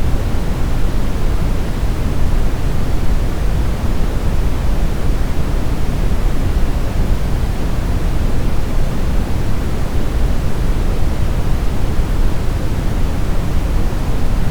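Steady brown noise: an even, deep rumbling hiss weighted toward the low end, with no changes or events.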